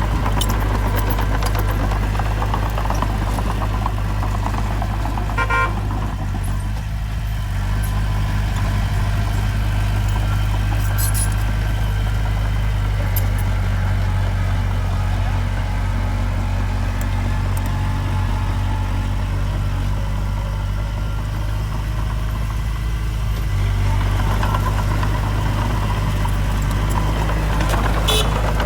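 Heavy diesel engine of earthmoving machinery running steadily with a deep hum, growing a little louder near the end. There is a short higher-pitched tone about five and a half seconds in, and a few metallic clanks.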